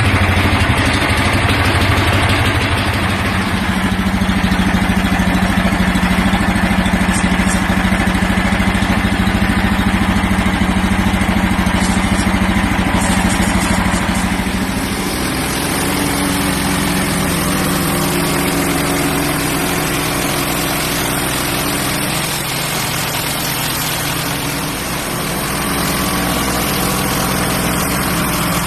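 Small gasoline engine of a portable band sawmill running steadily, just after start-up. About halfway through, its note changes and it gets slightly quieter.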